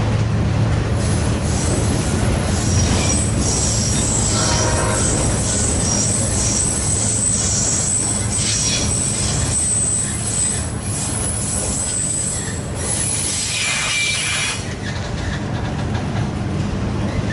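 Train rolling past with a steady low rumble, its wheels squealing high-pitched on and off until about fourteen seconds in.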